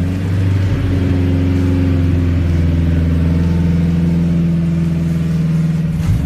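Car engine running, held at steady revs as an even low drone. Its pitch dips briefly near the end before it revs up again.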